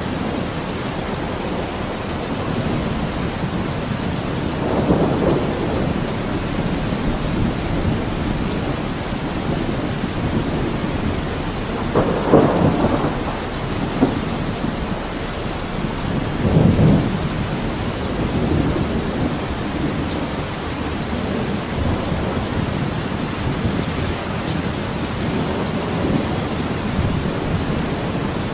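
Thunderstorm: steady rain with thunder rolling over it, swelling three times, the loudest roll about twelve seconds in.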